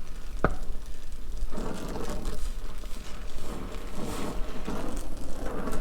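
Gas torch flame hissing steadily while bronze brazing rod is melted onto a steel oil pickup tube, with a sharp click about half a second in.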